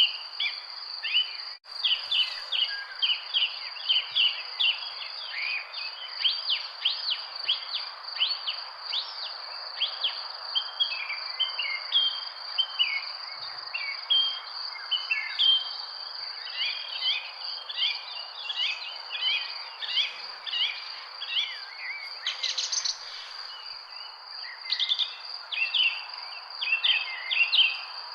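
Many small birds chirping and twittering in a dense chorus over a steady high-pitched insect drone and a soft background hiss, with a momentary dropout about a second and a half in.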